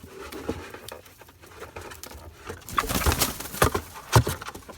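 Buff Orpington hens making low, cooing murmurs while a cardboard cricket box rustles, with a few sharp knocks in the second half as the box is handled and emptied.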